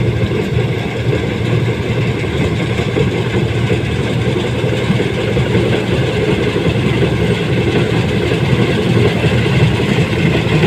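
Combine harvester engine running steadily at a constant speed, loud and unbroken.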